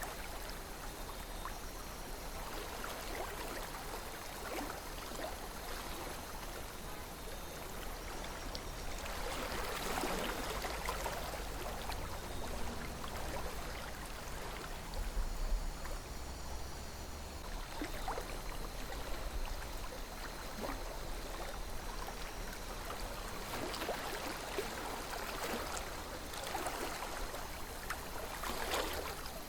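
A river flowing steadily, with small gurgles and splashes swelling louder every few seconds.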